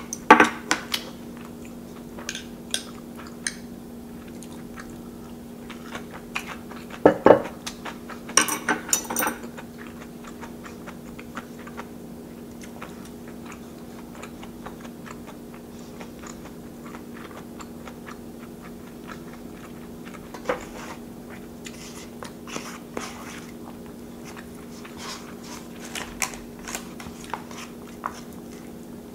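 Close-miked chewing of a mouthful of rice, with soft clicks and a short run of louder noises about seven to nine seconds in, over a steady low hum.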